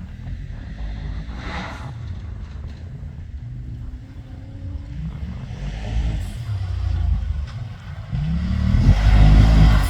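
Off-road competition safari vehicle's engine revving under load, growing louder from about eight seconds in as the revs rise.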